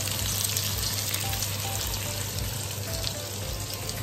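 Diced onion and capsicum sizzling in oil in a wok as they stir-fry: a steady crackle with fine pops, over a steady low hum.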